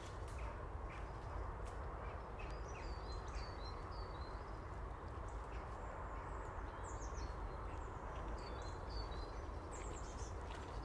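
Small birds calling, with short high chirps and whistles in two clusters, a few seconds in and again near the end, over a steady low background rumble.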